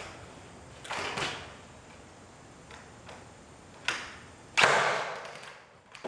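Scattered knocks and clatters of work handling, with one louder thud and a scraping rush that fades over about a second, about two thirds of the way in.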